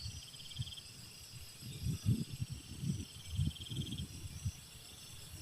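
Night insects, crickets or similar, trilling steadily in high pitches, with a pulsing trill that comes and goes twice. Faint, irregular low murmuring sounds lie underneath.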